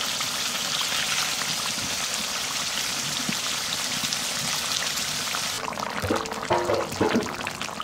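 Rohu fish curry sizzling in oil in an aluminium karahi, a steady hiss. About five and a half seconds in, the sizzle cuts off abruptly and gives way to a spatula knocking in a wetter, steaming gravy, with a few short tones.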